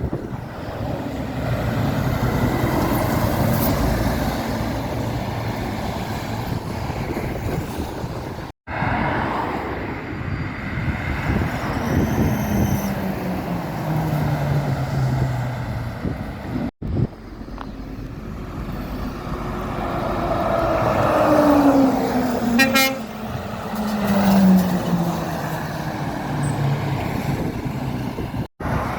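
Lorries passing at road speed, their engine and tyre noise falling in pitch as each goes by. Three abrupt cuts break it into separate passes. About three quarters of the way through, one gives a short horn toot.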